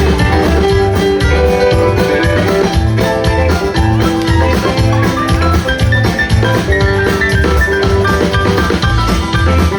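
A live band playing, with drums keeping a steady beat under bass and sustained instrumental notes.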